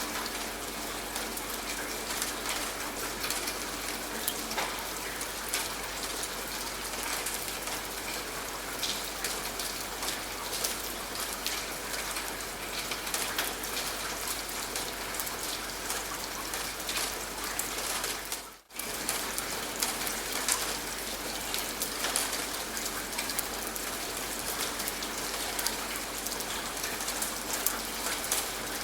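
Steady rain falling, with many individual drops ticking on a surface. About two-thirds of the way through, the sound cuts out for a split second and then resumes.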